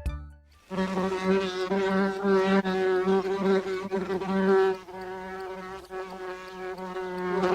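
Bees buzzing: a steady, pitched drone that starts about a second in.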